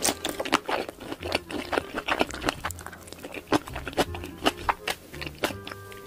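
Close-miked chewing of sausages: a dense run of wet mouth clicks and smacks, with a bite near the end.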